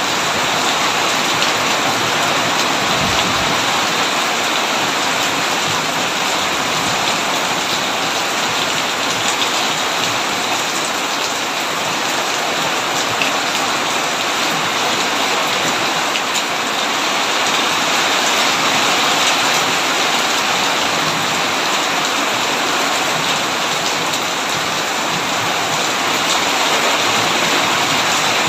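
Heavy rain drumming steadily on a tin roof: a dense, even hiss with scattered drop ticks.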